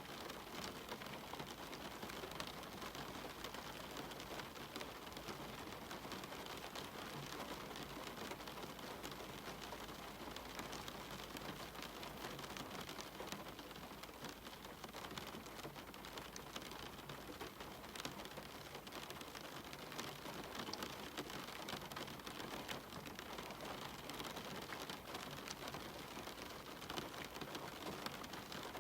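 Steady rain on a cabin window: an even hiss with many separate drop hits.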